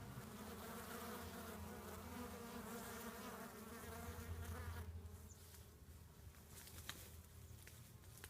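Honeybees buzzing at a hive: a steady, many-toned hum that fades about five seconds in, leaving a fainter hum with a few faint clicks.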